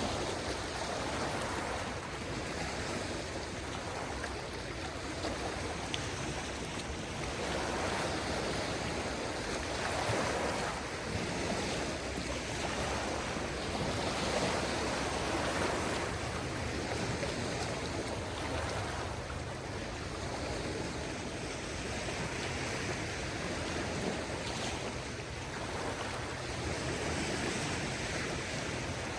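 Small waves on a calm sea washing gently onto the shore, a steady rush of water that swells and eases every few seconds.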